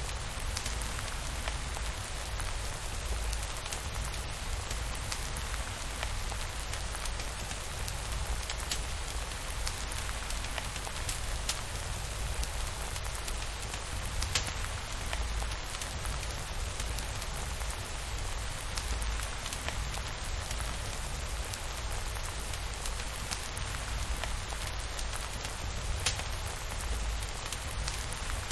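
Steady rainfall, an even hiss with a low rumble underneath, broken now and then by single sharp clicks.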